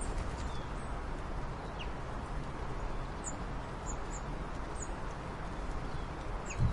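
Scattered faint, short high bird chirps over a steady low rumble of outdoor noise.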